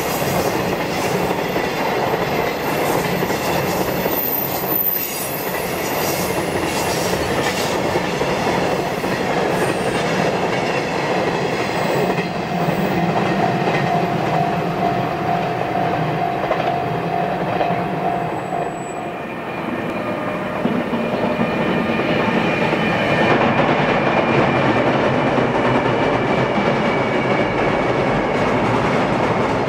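Two JR Freight container trains hauled by EH500 electric locomotives roll past, with continuous wheel-and-rail rumble and clatter as the container wagons go by. A brief drop a little past halfway breaks the sound, and near the end the second train crosses a steel girder bridge, where the rolling noise grows louder and fuller.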